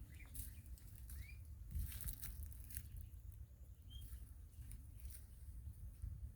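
Faint rustling and scratching with a few short, faint rising chirps from a small bird, over a low rumble.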